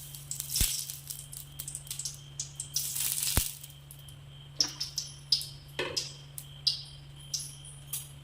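Pulav being cooked: a short burst of sizzling that ends with a low thud, then a second one, followed by a metal spoon clinking and scraping against the pot about once or twice a second, over a steady low hum.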